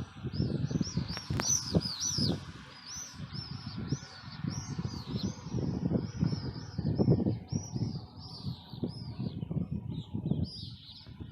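Many small birds chirping continuously, a rapid stream of short high chirps, over an uneven low rumble that comes and goes in gusts.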